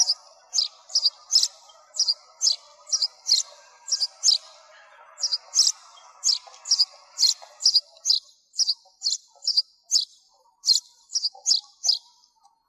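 Sparrow chirping repeatedly: short, high chirps about two to three a second, some in quick pairs, stopping just before the end. A faint lower background fades out about two-thirds of the way through.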